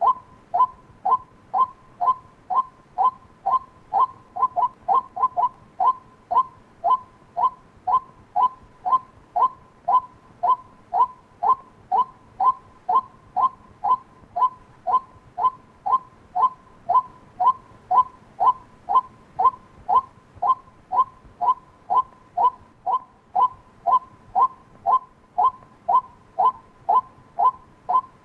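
White-breasted waterhen calling: a steady run of short, clipped notes, about two a second, each dropping a little in pitch at its end.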